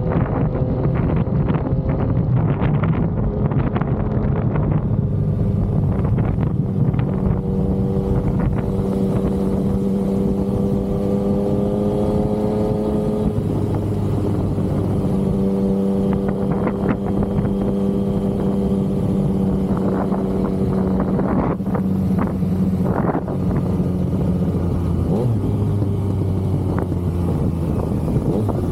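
Yamaha XSR900's inline three-cylinder engine running under way at a steady cruise, with wind rush. The engine note climbs slowly, then drops suddenly about halfway through as the bike shifts up a gear, and holds steady after.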